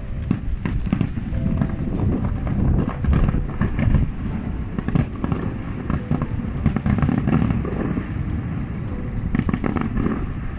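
Aerial fireworks bursting in quick succession, bangs and crackles overlapping into a continuous rumble, with music underneath.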